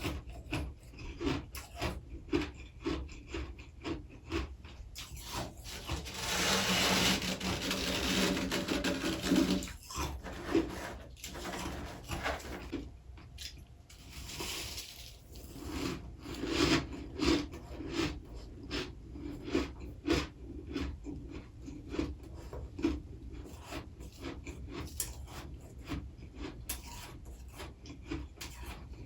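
Freezer frost being crunched and chewed close to the microphone in a steady run of short crunches, about two a second. A longer unbroken crunching stretch runs from about six to nine and a half seconds in, with a shorter one a few seconds later.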